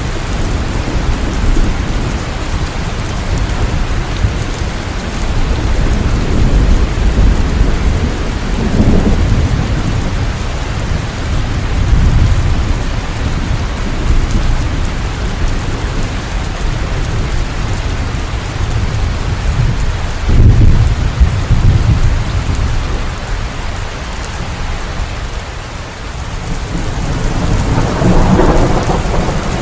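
Steady heavy rain with low thunder rolling under it, swelling up several times, most strongly about a third of the way in and again about two-thirds of the way in.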